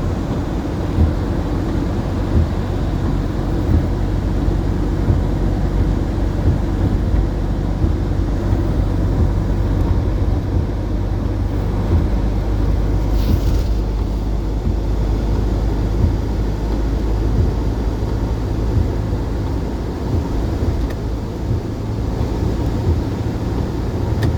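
Steady low rumble of a running engine with a low hum, with a brief hiss about 13 seconds in.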